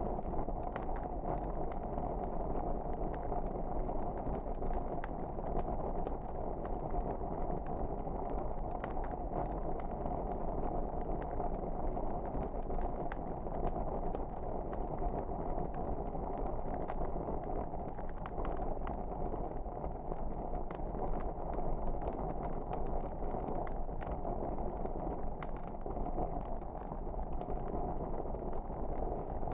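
Wood fire burning: a steady low rush with frequent small crackles and pops scattered throughout.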